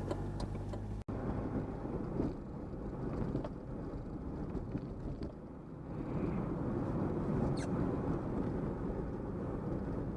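Car driving along: steady engine and road rumble with tyre hiss, with a sudden brief dropout about a second in.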